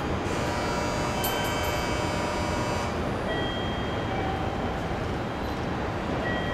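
A JR Central 211 series electric train standing still, its onboard equipment humming steadily. A high whine sounds for the first couple of seconds, then stops.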